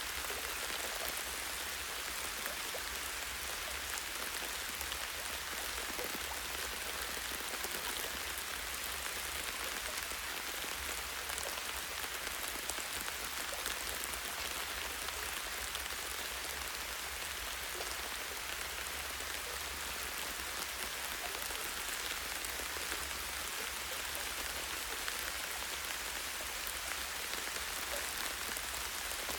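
Steady light rain falling on tree branches and leaves: many small drop ticks over an even hiss, with a steady low rumble underneath.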